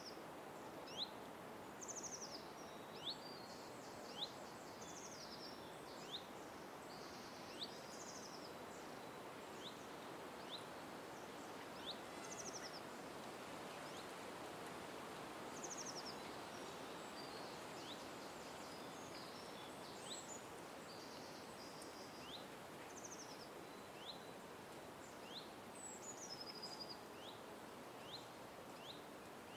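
Birds calling in a park: short, sharp chirps repeat about once a second, with higher trilled notes between them. A steady faint background hiss runs underneath.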